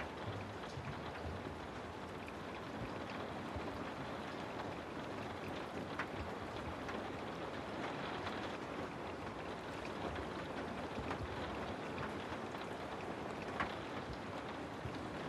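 Steady rain noise, an even hiss with a few sharper drop ticks now and then.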